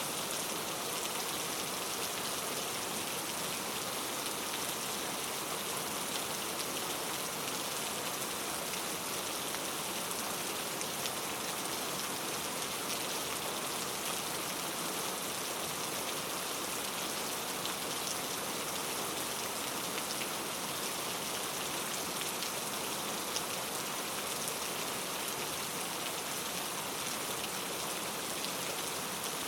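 Steady rain falling on a forest canopy and ground, a dense even hiss flecked with the patter of individual drops.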